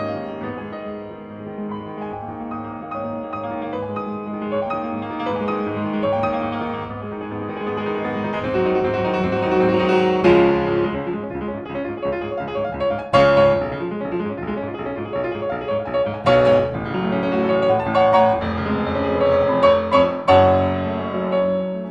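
Background piano music, a melody of sustained notes that grows fuller and louder through the middle, with several strong struck chords near the end.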